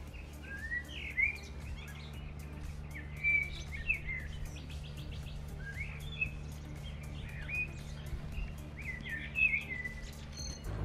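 Songbirds chirping, a string of short rising calls with a brief rapid trill about three and a half seconds in, over a steady low hum.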